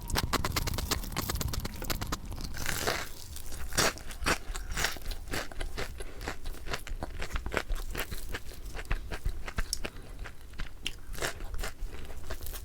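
Close-miked crunching of crispy butter crunch fried chicken being bitten and chewed, a dense run of crackles with a louder crunch about three seconds in.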